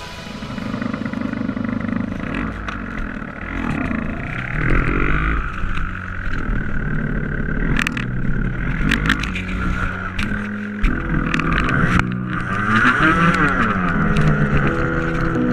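Dirt bike engines running and revving, the pitch repeatedly rising and falling, with a few sharp knocks.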